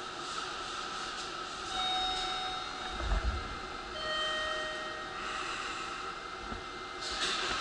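Electric train running, a steady rumble and hiss with thin whining tones that come and go, and a brief low thump about three seconds in.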